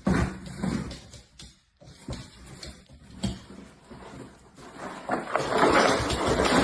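A dog's sounds: scattered short, soft noises, then a louder, rough, noisy stretch over the last second and a half.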